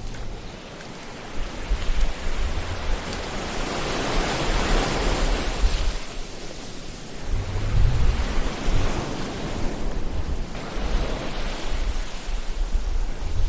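Ocean surf: waves washing in with a hiss that swells and falls back every few seconds over a low rumble.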